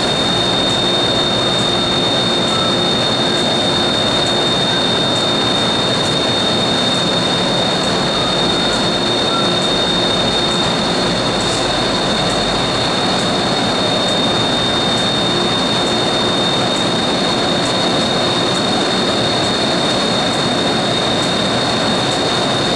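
MTR M-Train electric multiple unit standing at an underground platform. Its equipment gives a steady rushing hum with a high, constant whine and a fainter lower tone that comes and goes.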